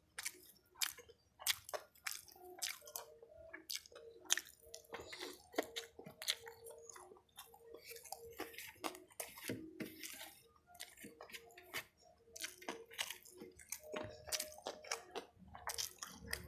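Close-miked mukbang eating sounds: wet chewing, with irregular lip smacks and mouth clicks, several each second, as fried chicken and rice are eaten. A faint steady hum runs underneath.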